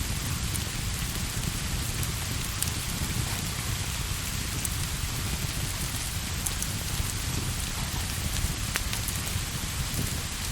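Steady rain, an even hiss with a dense low rumble underneath and a few faint sharp ticks scattered through it.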